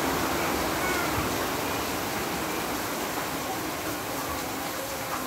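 Heavy rain pouring down steadily, with one or two faint short calls of an animal about a second in.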